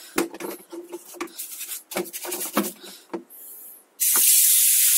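A few short knocks and rubbing sounds, then about four seconds in a steady spray of liquid starts hissing as the bicycle is washed.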